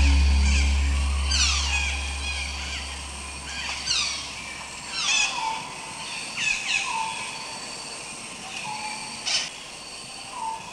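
Rainforest birdsong: birds give quick descending calls every second or two, with shorter low notes between them, over a steady high hiss. A low music drone fades out over the first few seconds, and a single sharp click comes about nine seconds in.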